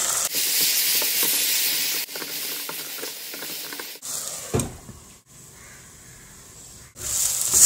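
Mashed roasted eggplant sizzling as it goes into hot oil and onion-tomato masala in a nonstick pan, with a spatula scraping and stirring through it. The sizzle is loudest at first and dies down after about two seconds; a knock comes about halfway, and a loud burst of hissing near the end.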